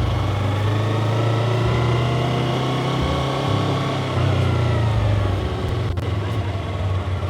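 Motorcycle engine running under way in a low gear, its pitch easing down and back up through the middle as the bike slows through a U-turn.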